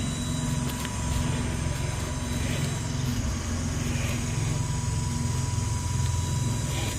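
A steady low mechanical drone with a faint constant high tone above it.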